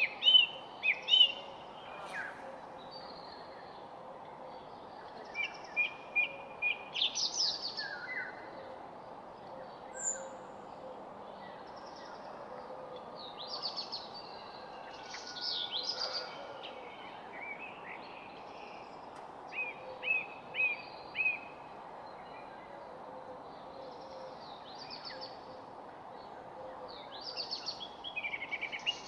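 Songbirds chirping and trilling in short, scattered phrases, several calls overlapping at times, over a steady background hiss.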